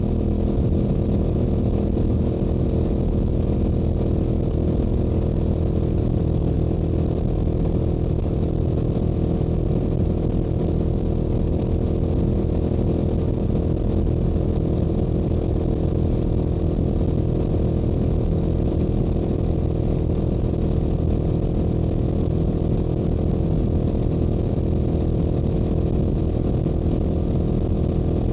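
Stock Yamaha YZF-R7's 689 cc parallel-twin engine and exhaust at steady highway cruising speed. The note holds one pitch, with no gear changes or throttle swings.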